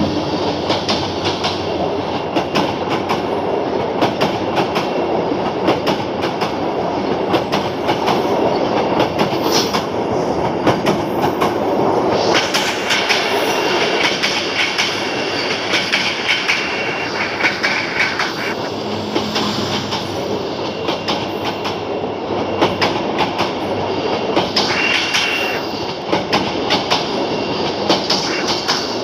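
Korean-built passenger coaches of a Bangladesh Railway express rolling past at close range. The wheels rumble steadily on the rails with a fast run of clicks over the rail joints. A thin, high wheel squeal comes in about twelve seconds in and again briefly later.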